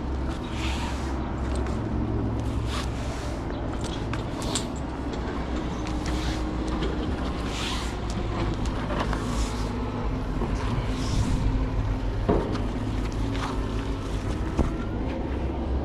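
Heavy vinyl flatbed tarp being folded and rolled, with a swish or rustle every second or two and a few sharp knocks, over a steady low engine hum.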